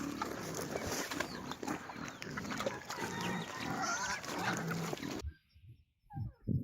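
Several farm animals calling at once, overlapping honk-like and bleating calls over a busy background. About five seconds in, the sound cuts off abruptly and gives way to a quieter run of short, separate sounds.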